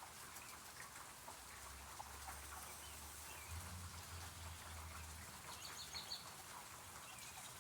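Steady hiss of rain falling, with a few faint bird chirps, a small cluster near the end. A low hum sits underneath for a few seconds in the middle.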